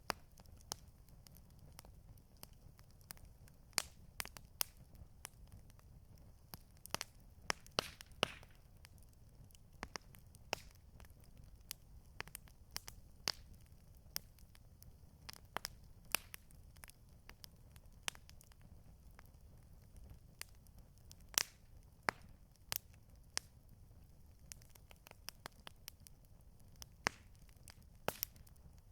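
Campfire crackling: irregular sharp pops and snaps from burning wood, a few every second, over a low steady hiss of the flames.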